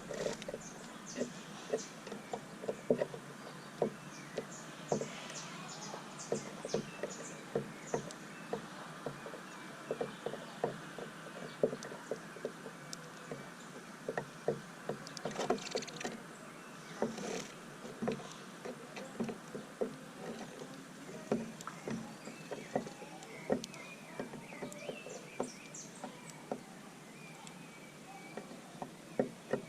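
Small birds pecking and cracking seed on a bird feeder: irregular sharp taps and clicks, about one or two a second, over a faint steady background.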